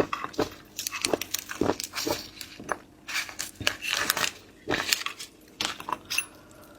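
Close-miked eating: biting and chewing seafood, with irregular wet clicks and crunches from the mouth that thin out near the end.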